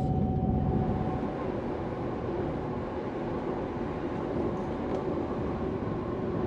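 Steady running rumble of a Transwa WDA-class diesel railcar travelling along the track.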